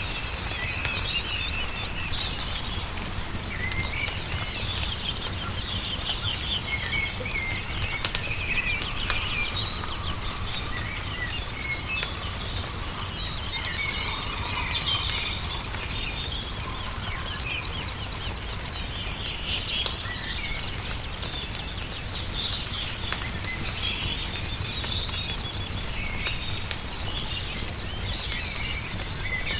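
Songbirds chirping and singing continuously over the pops and crackles of a wood fire, with a steady low rumble underneath.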